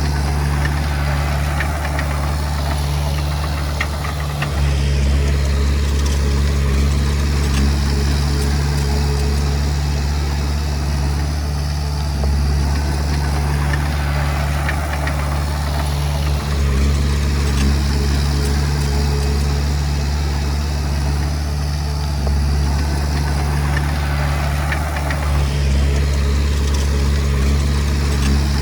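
Komatsu D20P bulldozer's diesel engine running steadily with a deep hum, its note shifting slightly every four to six seconds.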